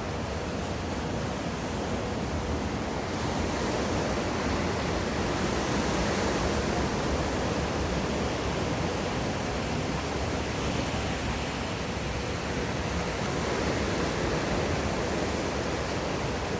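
Whitewater rushing in a wave pool, a steady hiss of breaking water that swells a few seconds in.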